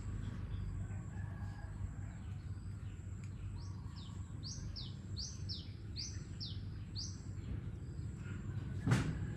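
A bird calling: a run of about ten short, high chirps, each falling in pitch, about three a second, over a steady low rumble. A sharp knock near the end.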